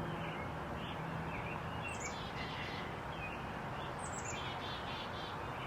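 Songbirds chirping in a backyard: two high falling calls, each followed by a quick run of repeated notes, over a steady low background rush.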